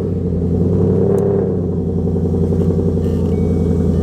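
Ford Mustang's first-generation 5.0 Coyote V8 idling steadily just after a cold start, still warming up.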